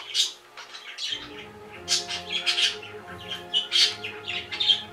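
A pet bird chirping and squawking in many short, sharp high calls, one after another.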